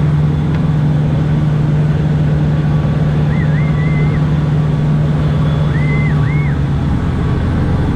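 Service boat's engine running steadily. Its note changes about six and a half seconds in, and short high sliding tones come a couple of times.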